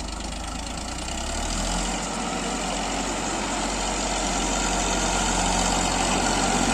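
Indo Farm tractor's diesel engine labouring under load as it hauls a big loaded trolley up a slope. The note shifts about two seconds in, and the engine grows steadily louder.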